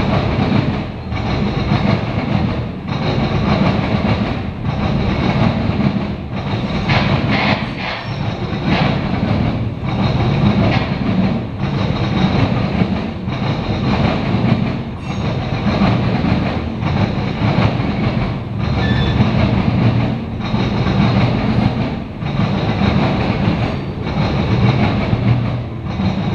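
Covered hopper cars of a CSX grain train rolling steadily past, the wheels making a continuous clickety-clack with a regular dip in the sound roughly every one and a half to two seconds.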